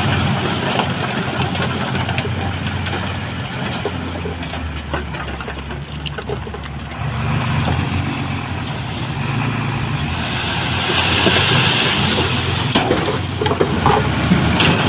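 Heavy diesel engine of construction machinery running steadily, its drone growing louder about halfway through, with scattered knocks and a hiss partway in.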